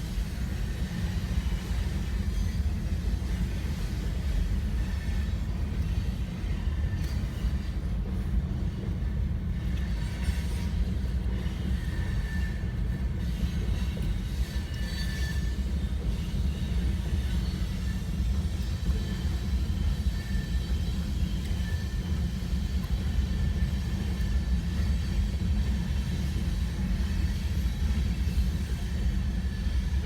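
Train rolling past with a steady low rumble, and faint high-pitched wheel squeals coming and going around the middle.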